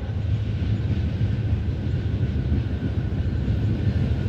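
Low, steady rumble of an approaching freight train's diesel locomotives, an SD70ACe leading a Dash-9.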